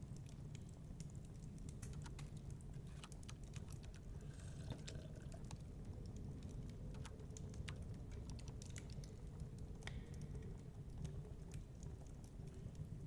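Wood fire crackling in a fireplace, with many small irregular pops and snaps over a steady low rumble.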